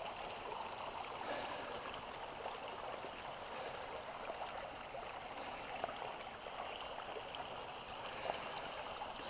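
Small stream with a little running water, a steady, gentle trickling rush.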